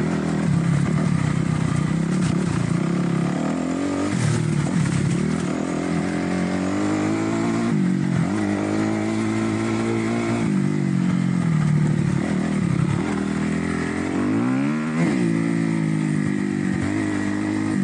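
2008 Kawasaki KX250F's single-cylinder four-stroke engine running under way at low speed, its revs dropping and climbing again several times as the throttle is closed and reopened.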